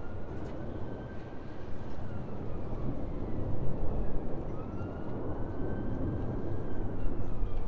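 Low, steady rumble of a jet airliner flying overhead, with a faint engine whine that rises and falls.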